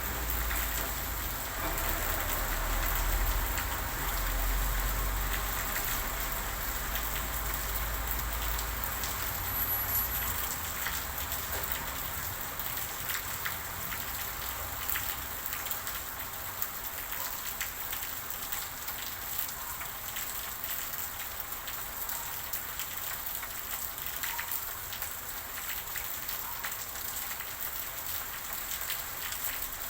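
Steady rain falling on a surface, many single drops ticking through the hiss. A low rumble underneath fades away about ten seconds in.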